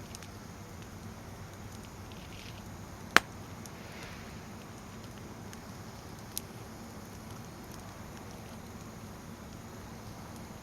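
Firewood burning, a low steady rustle with faint crackles, broken by one sharp loud pop about three seconds in and a smaller pop about three seconds later.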